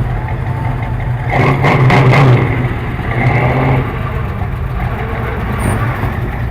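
Car engine running with a deep steady rumble, swelling louder for about a second, about a second and a half in, as it accelerates.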